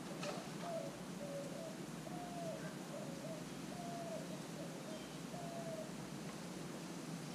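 A bird cooing: a run of about nine short, low coos in steady succession that stops about six seconds in, with a single brief click near the start.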